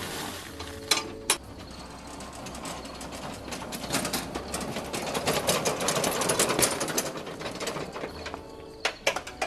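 Home-built electric lawn tractor pushing gravel with a front blade: mechanical clattering and gravel crunching that grows louder in the middle, with a few sharp clicks about a second in and near the end.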